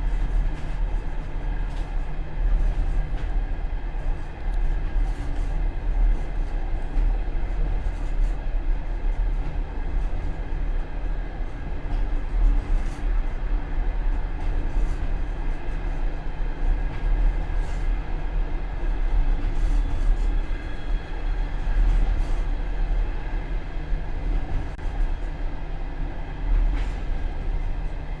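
Passenger train running on the track, heard from the rear vestibule of the last car: a steady rumble of wheels on rails with occasional faint clicks.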